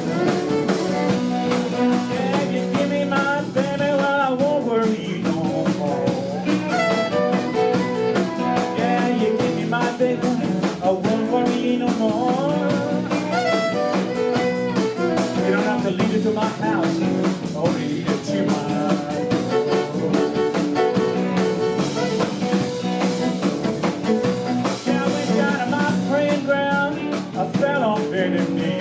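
A live blues band of guitar, drums and violin playing, with wavering, gliding melody lines over a steady rhythm.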